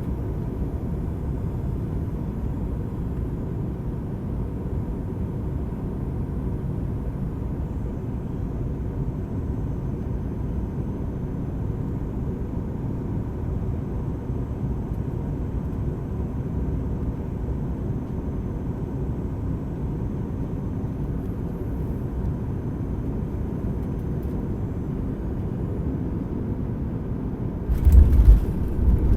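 Steady low rumble of a Boeing 737 MAX 8 on final approach, heard from inside the passenger cabin. About 28 seconds in, a sudden jolt and a much louder low rumble as the wheels touch down on the runway.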